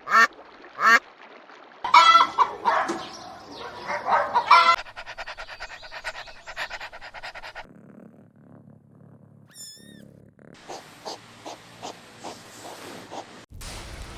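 Poultry calling in a string of short clips joined by abrupt cuts. First come three sharp calls, then a dense burst of many overlapping calls, then a fast run of short pulses. A single high chirp sounds near the middle, and a series of evenly spaced short calls comes near the end.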